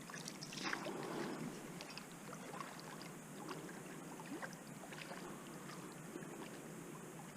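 Faint water sloshing and splashing from a hooked carp being played close to the bank, with scattered small clicks and a slight swell about a second in.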